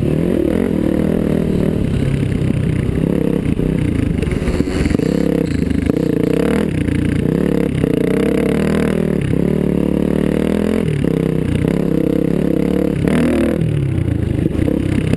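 Dirt bike engine being ridden hard, its pitch climbing under throttle and dropping off again many times over as the rider shifts and rolls off the throttle.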